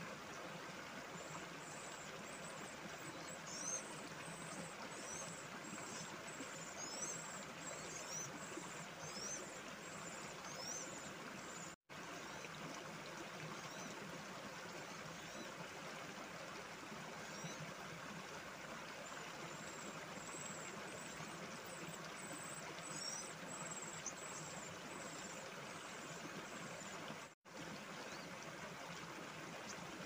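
Two bouts of high, thin chirps from a small bird, repeated a little faster than once a second, over a steady rushing hiss. The sound cuts out briefly twice.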